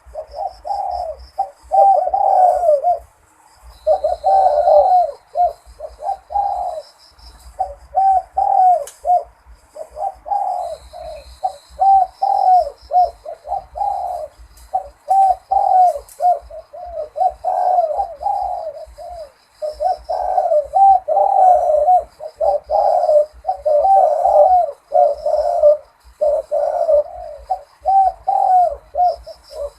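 Zebra dove singing its cooing song in the Malay rhythm, with phrase after phrase of quick, clipped notes and short pauses between phrases. Faint high chirping runs behind it.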